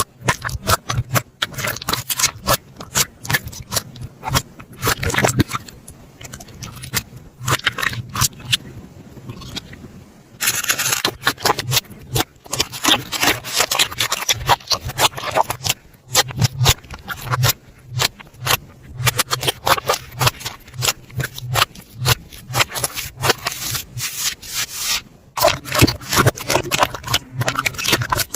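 Slime being squished and stretched by hand, giving a dense, irregular run of wet clicks and crackles. It softens for a few seconds and grows louder again about ten seconds in.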